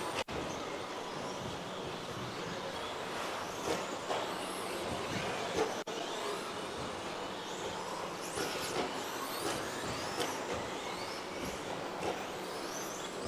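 Electric 1:10 RC racing trucks with 13.5-turn brushless stock motors running laps: high-pitched motor whines gliding up and down as they accelerate and brake, over a steady noise.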